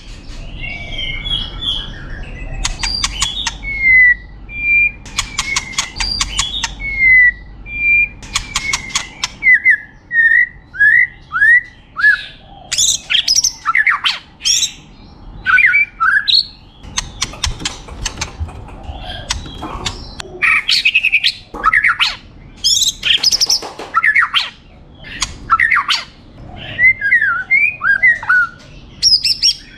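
White-rumped shama (murai batu) singing a long, varied song full of mimicked phrases. It mixes short whistled notes that slide down in pitch, bursts of rapid clicking rattles, and loud harsh phrases.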